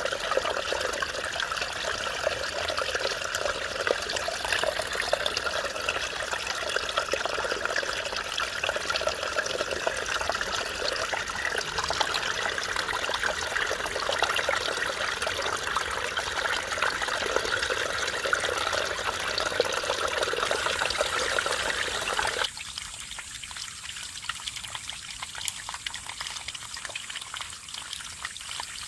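Mountain stream babbling and trickling over rocks. About 22 seconds in the sound cuts abruptly to a quieter, thinner trickle.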